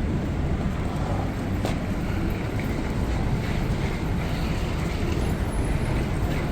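Steady low background rumble, with one sharp click about a second and a half in.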